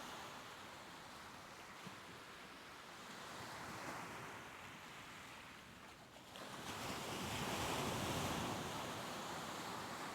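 Soft ocean waves washing ashore: a wave swells around 4 seconds in, the sound drops off just after 6 seconds, then a louder wave breaks and washes in, peaking around 8 seconds and fading toward the end.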